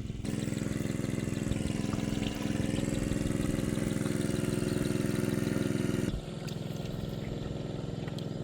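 A small engine running steadily; about six seconds in its level drops suddenly and it carries on more quietly.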